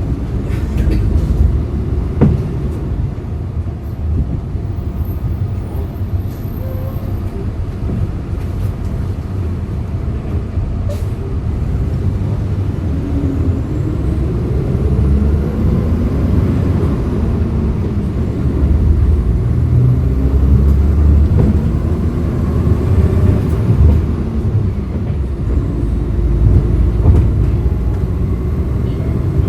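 Hyundai Green City CNG city bus engine running while the bus is under way, heard from inside the bus: a steady low rumble whose pitch rises and falls as the bus speeds up and eases off, about halfway through and again later.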